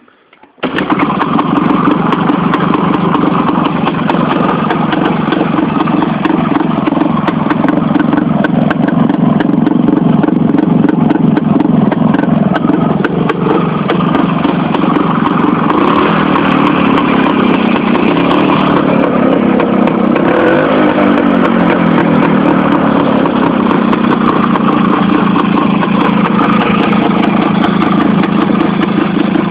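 IZh-56 motorcycle's single-cylinder two-stroke engine running with a dense, rapid exhaust beat. It sets in abruptly under a second in, and its speed rises and falls a little around the middle.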